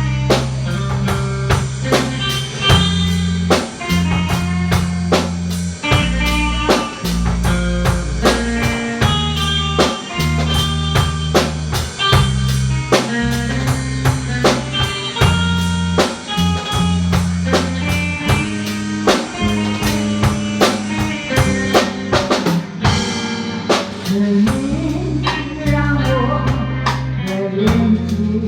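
A small band playing an instrumental passage in E-flat: a drum kit keeping a steady beat with rimshots, an electric bass holding low notes, and a lead guitar playing the melody.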